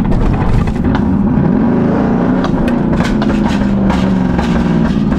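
Jeep Grand Cherokee Trackhawk's supercharged 6.2-litre V8 running under throttle, its note rising and falling, with a run of sharp cracks about halfway through.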